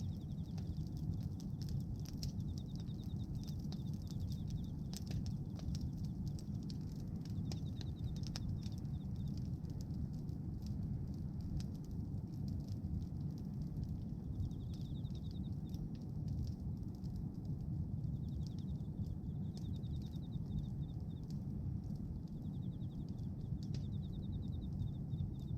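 Bonfire of pruned tree branches burning, with a steady low rumble and scattered crackles and pops. A high, rapid trill comes and goes several times.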